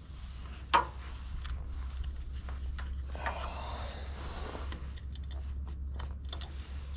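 A sharp click about a second in, then faint scraping and small clicks as a screwdriver pries a stiff wiring plug off a tractor headlight bulb; the plug is stiff with the cold. A steady low hum runs underneath.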